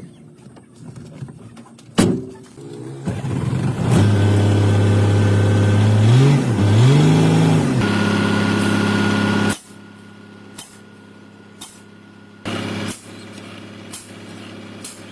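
Car engine running steadily, revved up twice, then cut off suddenly. A sharp click comes before it, and a quieter steady hum with a few clicks follows.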